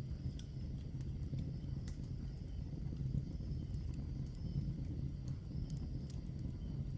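Wood fire of burning logs crackling: scattered sharp pops and snaps, a dozen or so irregularly spaced, over a steady low rumble from the fire.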